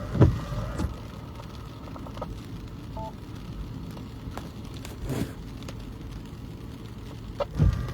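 Two-way radio hissing and crackling on an open channel between transmissions on a weather spotter net, with a very short two-note electronic beep about three seconds in and a low thump at the start and again near the end.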